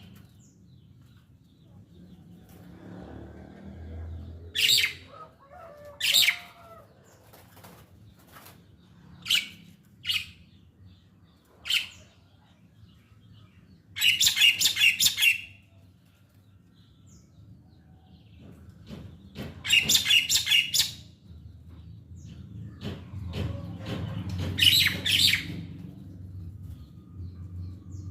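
A starling giving short, sharp chirping calls at intervals. Three times it breaks into a rapid run of repeated harsh notes lasting a second or two.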